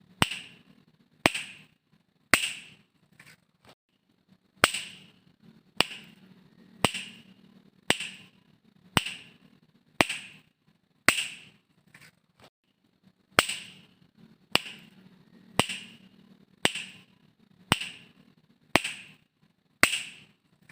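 Finger snaps, one sharp snap about every second, each with a short ring; the rhythm pauses briefly twice.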